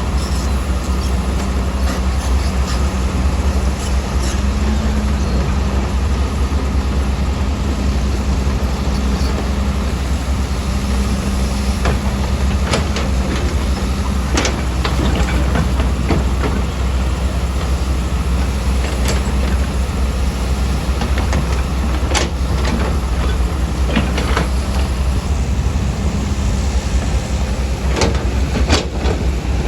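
Heavy earthmoving machine's engine running steadily with a deep rumble, with scattered sharp knocks and clanks now and then.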